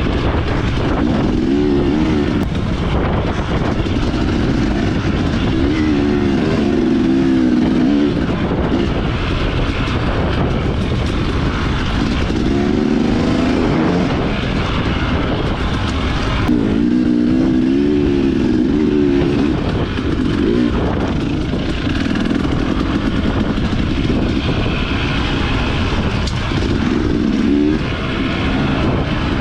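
Dirt bike engine running hard while being ridden, its pitch rising and falling over and over as the rider works the throttle.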